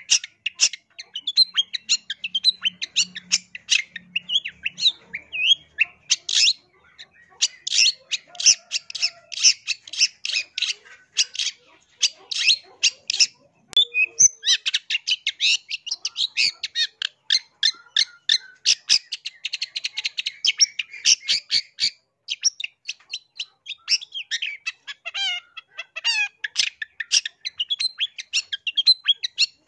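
Long-tailed shrike (cendet) singing: a fast, near-continuous run of short, scratchy chattering notes, with brief pauses about a third and half way through.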